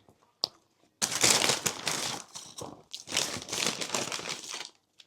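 Paper fast-food bag crinkling and rustling as it is handled and opened, in two spells of about a second and a half each, after a single sharp click.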